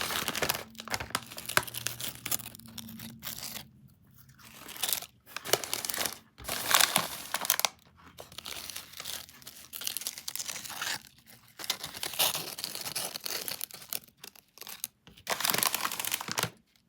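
Bag of Amica Chips Patatina Ketchup potato chips being handled: the packaging crinkles and tears and the chips crunch, in irregular bursts with short pauses between them.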